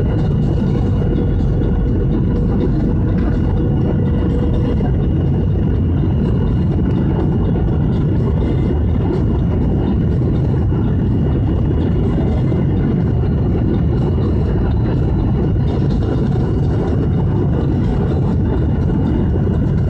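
Aircraft engine noise: a loud, steady low rumble with a few faint, steady whining tones above it.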